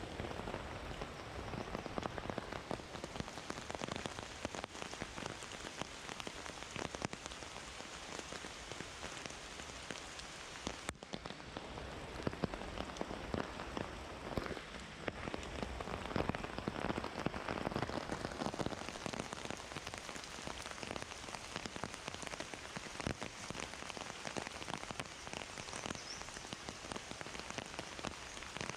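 Heavy rain falling steadily, a dense, continuous mass of individual drops.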